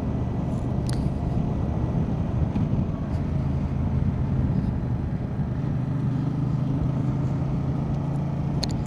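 Motorcycle engine running at a steady cruising speed, with road and wind noise; the engine note holds an even pitch through the second half.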